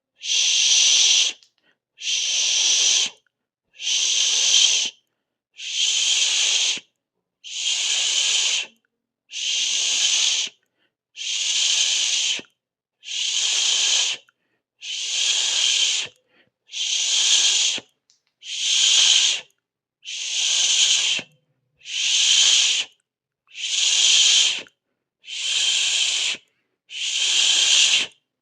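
A person making a long hissing 'shhh' with the mouth, over and over, about one every two seconds. Each hiss lasts over a second and is separated by a short silent gap.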